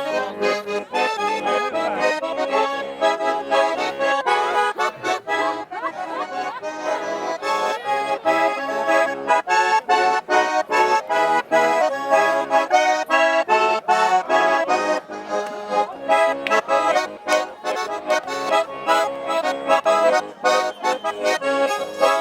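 Garmon (Russian button accordion) playing a lively traditional tune of quick repeated notes over a steady chord rhythm.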